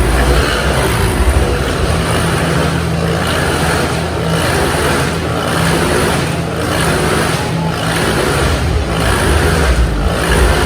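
Motorcycle engines running hard inside a steel globe of death, the noise swelling and dipping in a regular rhythm about once a second as the riders loop around the cage.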